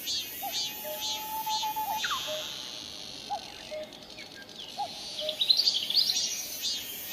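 Common cuckoo calling its two-note "cuck-oo", the second note lower, repeated about every one and a half seconds, over other birds chirping rhythmically. Partway through, a steady high buzz is heard, and about five seconds in a quick run of high bird notes is the loudest sound.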